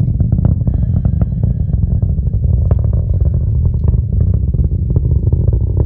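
Rocket launch heard from a distance: a deep, continuous rumble from the rocket engines with rapid crackling running through it, like fireworks.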